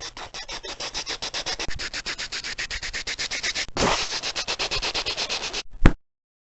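Rapid scratching or rubbing noise, about ten strokes a second, that stops abruptly and is followed by one sharp click.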